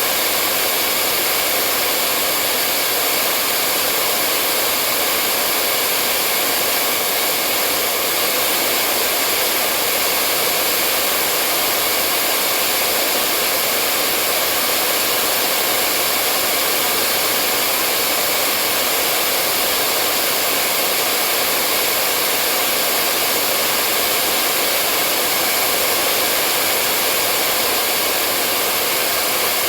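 Hair dryer running steadily, a constant airy rushing hiss with a faint motor whine, unchanging throughout.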